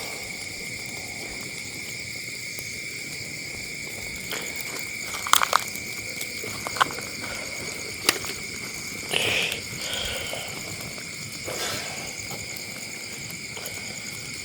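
Steady chirring of night insects such as crickets, with a few sharp clicks and knocks about a third of the way in and again near the middle.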